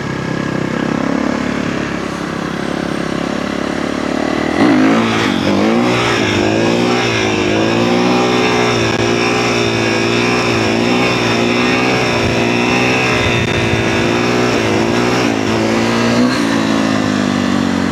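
Kawasaki KX450F dirt bike's single-cylinder four-stroke engine, heard through a mic inside the rider's helmet: running at moderate revs, then opening up sharply about four and a half seconds in and held at higher revs, its pitch wavering up and down with the throttle.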